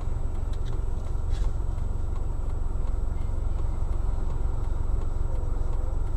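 Steady low rumble of a stationary car's engine idling, heard from inside the cabin, with a few faint ticks.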